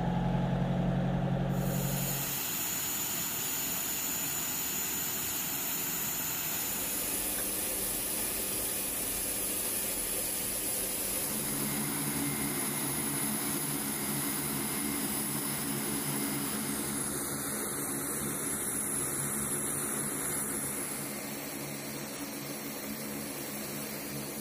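Aircraft turbine engine running steadily: a rushing noise with a high, steady whine over a low hum. The hum and whine change abruptly a few times.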